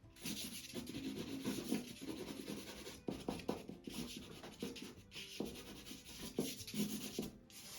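Graphite and charcoal drawing sticks scratching across heavy paper with an acrylic underpainting, in quick strokes with short pauses about three, five and seven seconds in.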